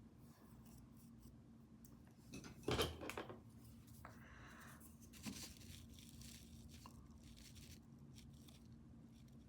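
Quiet room with a steady low hum and a few brief rustling, handling noises of art supplies, the loudest about three seconds in.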